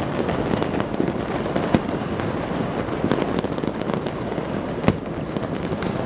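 Many fireworks going off at once: a continuous rattle of bangs and crackles, with two sharper, louder bangs about a second and a half in and near five seconds in.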